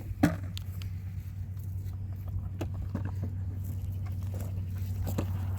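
A steady low hum with irregular sharp clicks and knocks over it, the loudest a knock just after the start.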